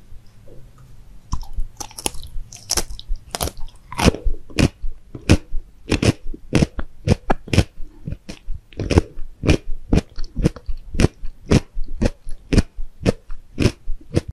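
Close-miked chewing of crunchy food, with a bite at the start. It runs on as a steady series of sharp crunches, about two or three a second.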